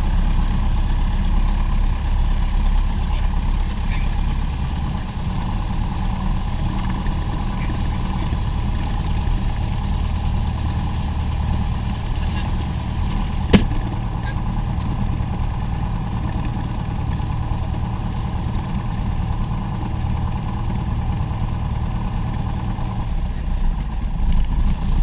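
Aircraft engine droning steadily in flight, heard inside the cabin, with one sharp click about halfway through.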